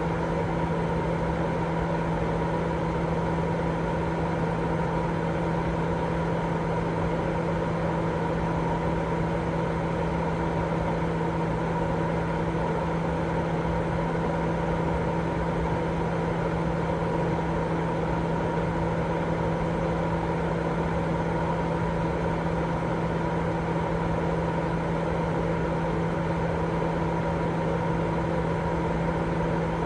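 Continuous baby-sleep white noise: an even, unchanging hiss with a steady low hum running through it.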